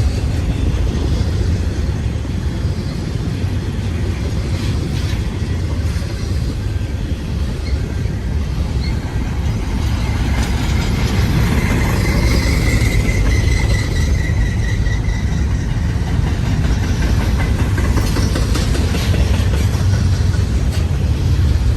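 Long BNSF freight train rolling past: a steady rumble of cars and wheels on the rail, with a faint high-pitched squeal about halfway through.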